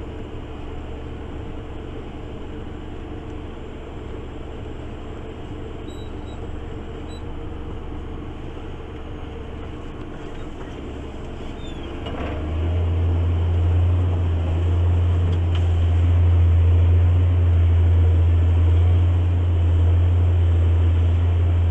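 JCB Fastrac 8250 tractor engine, heard from inside the cab, running steadily under load while ploughing. About halfway through, its note gets louder and deeper as the engine works harder.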